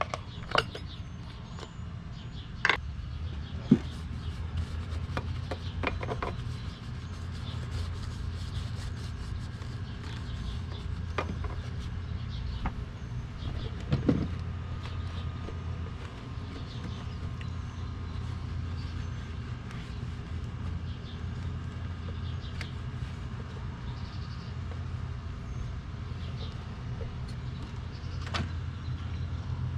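A steady low hum, with scattered sharp clicks and knocks from cleaning tools and bottles being handled and set down.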